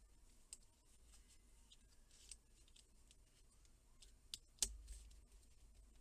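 Faint, scattered clicks and taps of small hard objects being handled, with a sharper click about four and a half seconds in.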